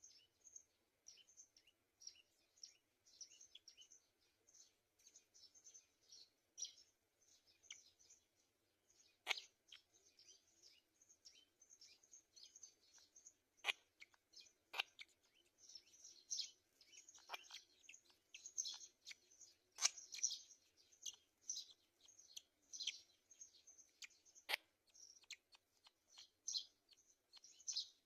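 Birds chirping: a dense run of short, high chirps that grows busier in the second half, with about five sharp clicks scattered through it.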